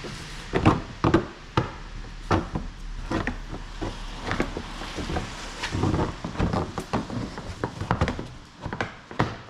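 Irregular series of knocks, taps and clunks of tools and parts being handled during car suspension work, the two loudest about a second in.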